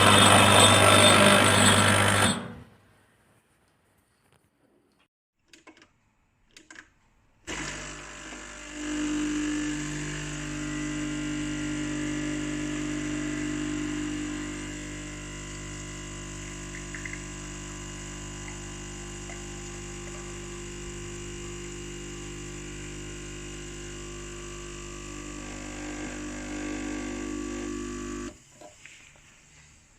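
De'Longhi Icona espresso machine's pump buzzing loudly, cutting off about two and a half seconds in. After a few light clicks it starts again about seven seconds in and runs steadily for about twenty seconds before stopping near the end, as when pulling a shot.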